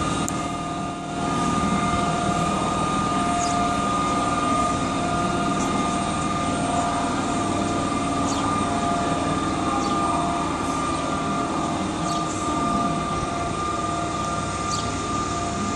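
Train passing at close range: a continuous rumble of wheels on rail, with steady high squealing tones from the wheels held throughout and occasional light clicks.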